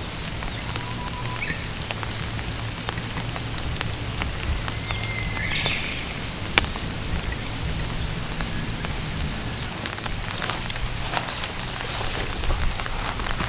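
Heavy rain pouring down in a steady downpour, with many individual drops ticking sharply on nearby surfaces over a low rumble.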